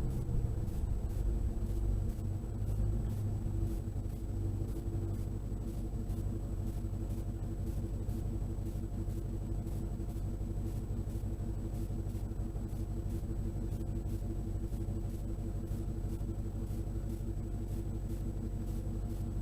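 Dodge Charger running with an aftermarket Gibson muffler, heard from inside the passenger cabin: a steady, low exhaust rumble. It eases down over the first few seconds, then holds even.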